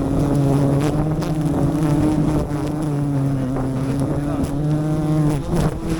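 Bees buzzing in a steady, wavering drone, with scattered clicks and rustles over it.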